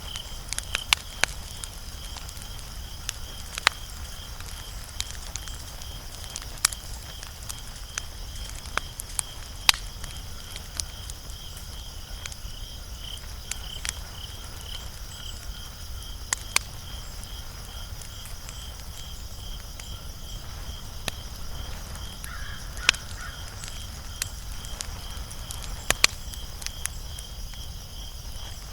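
Wood fire crackling, with irregular sharp pops and snaps, a few of them much louder, over a low steady rumble. A faint high chirp pulses evenly in the background throughout.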